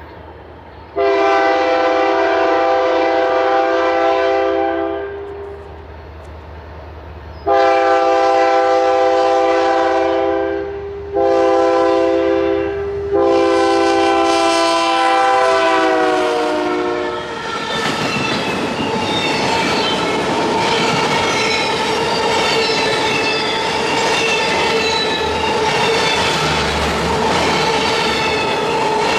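Diesel locomotive's multi-chime air horn sounding the grade-crossing signal: long, long, short, long, the last blast dropping in pitch as the locomotive passes. Then the train rolls by with wheels clattering over the rail joints and a steady wheel squeal.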